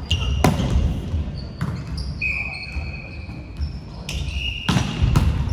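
Basketball game sounds on a hard indoor court: a ball bouncing in several sharp thuds, with short high-pitched sneaker squeaks between them.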